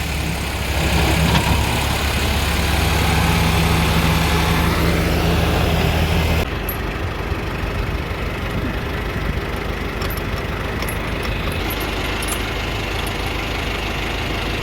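Diesel engine of heavy machinery running steadily. About halfway through the sound changes abruptly to a duller, slightly quieter running.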